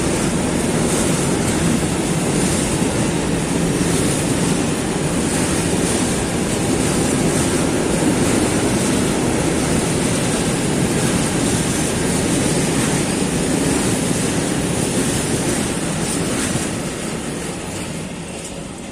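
Freight train of flat wagons rolling past, a steady loud noise of wheels on rail, fading over the last few seconds.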